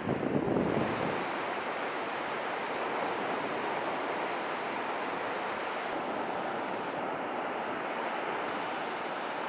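Steady wash of ocean surf on a sandy beach, with a little wind buffeting the microphone in the first second.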